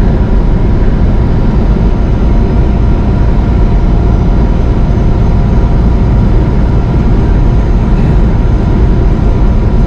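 Steady low engine drone and road rumble inside a semi truck's cab while driving, with a few faint steady tones over it.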